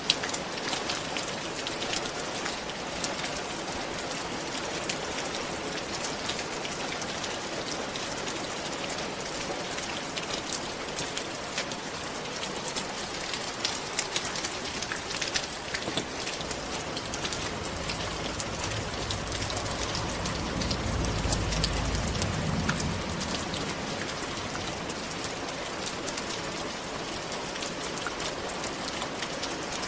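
Steady rain falling on a roof: an even hiss scattered with sharp drop ticks. A low rumble swells and fades over a few seconds past the middle.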